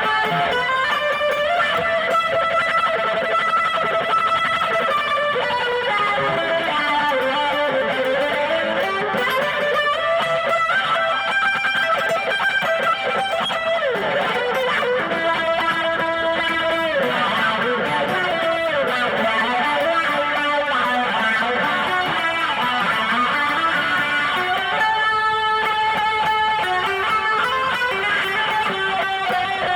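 Amplified guitar played continuously as a melodic improvisation, with held notes and notes bent and slid up and down in pitch.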